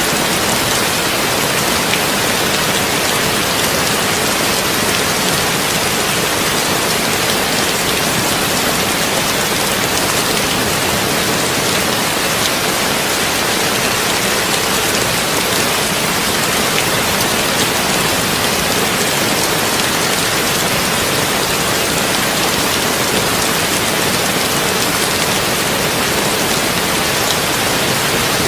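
Heavy rain falling steadily on a tin roof: a dense, even hiss with faint scattered drop taps.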